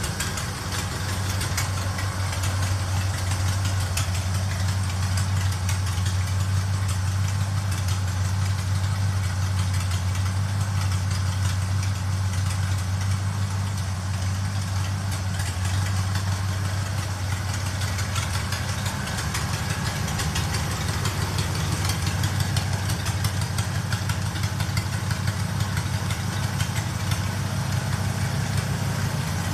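Rat rod truck's engine idling steadily, shortly after its first start.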